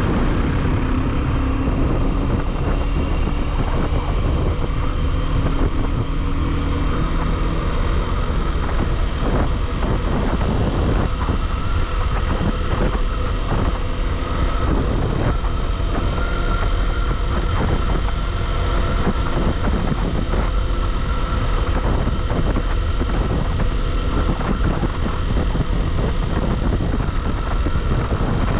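A motorcycle running steadily at road speed, with engine and road noise that hold level throughout.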